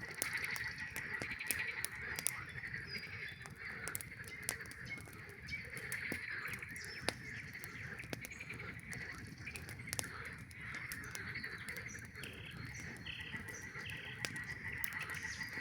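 A dense chorus of frogs calling without a break, over the sharp pops and crackles of a wood campfire.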